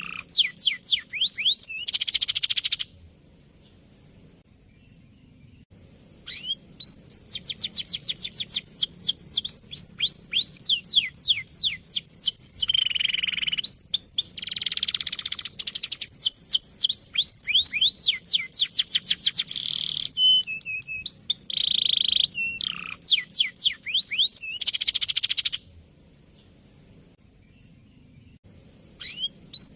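Male domestic canary singing in long phrases of rapid rolling trills: fast runs of repeated downward-sweeping notes mixed with harsh, buzzy rolls. The song breaks off twice for about three seconds, once early on and once near the end.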